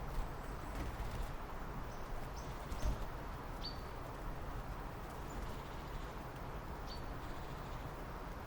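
Scattered short, high bird chirps, a handful over several seconds, over a steady bed of outdoor background noise.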